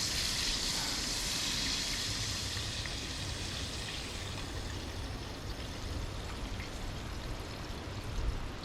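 Popcorn chicken sizzling in hot frying oil, a steady hiss that fades after about three seconds, with wind rumbling on the microphone underneath.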